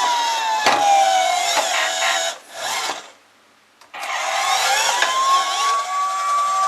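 Toy police car's electronic siren sound: a wailing tone sliding down in pitch, cutting out for about a second, then rising again and holding steady. A few sharp clicks from the plastic toy being handled sound over it early on.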